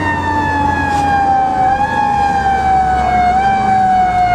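Fire engine siren wailing, its pitch falling slowly and steadily, over the steady low drone of the truck's engine.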